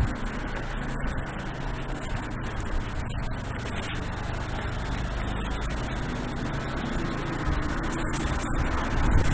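A motor vehicle's engine running steadily under wind noise; its low hum drops away about seven and a half seconds in.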